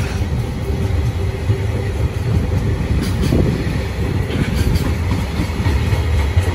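Container freight train of Koki 107 flatcars rolling past at speed: a steady low rumble of wheels on rail, with a few clicks from the wheels.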